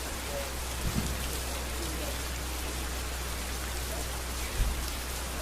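Steady rain falling on a street, a dense even patter on hard surfaces. Two short, dull low thumps stand out, one about a second in and a louder one near the end.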